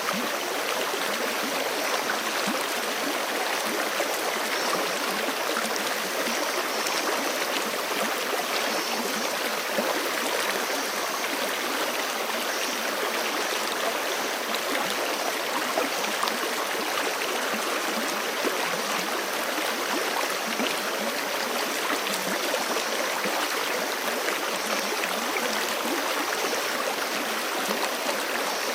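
A fast-flowing forest creek running over rocks: a steady, even rush of water with fine gurgling and splashing.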